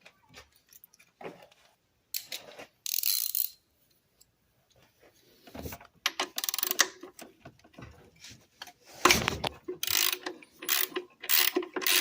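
Socket ratchet wrench clicking as it turns a 19 mm bolt, with metal clinks of the tool; short scattered clicks at first, then repeated runs of ratcheting strokes from about halfway through.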